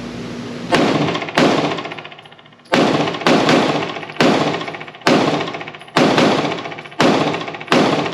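PSA Dagger 9mm compact pistol firing a quick string of about a dozen shots, starting just under a second in, with a brief pause around two seconds, each shot echoing in an indoor range.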